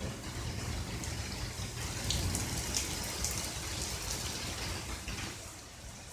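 Rain falling with heavy drops and drips spattering over a steady patter, easing off a little about five and a half seconds in.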